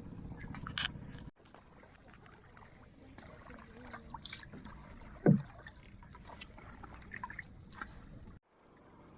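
Kayak paddling: water sloshing and dripping around the paddle and hull, with scattered light clicks and one louder knock about five seconds in. The sound breaks off abruptly twice.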